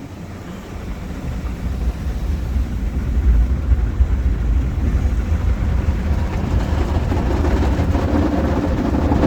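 Ryko SoftGloss rollover car wash machine running over the car in its wash cycle, a steady rumbling, rushing noise that builds over the first few seconds and then holds.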